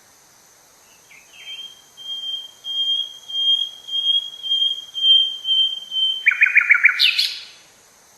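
A bird singing: a series of even whistled notes, about two a second, then a quick run of rapid notes ending in a short harsh note.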